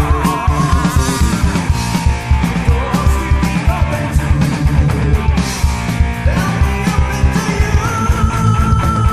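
Heavy metal band playing: two electric guitars, bass guitar and a drum kit driving on together, with a long held high note coming in near the end.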